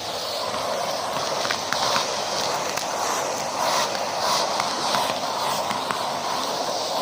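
Numatic James vacuum cleaner in use, heard through a microphone mounted on the machine. Its rough rushing noise swells and fades as it is worked back and forth, with scattered small clicks and crackles.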